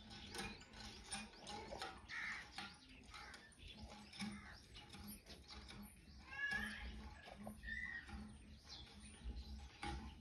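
Faint outdoor ambience with scattered bird chirps and calls, one clearer gliding call about two thirds of the way through.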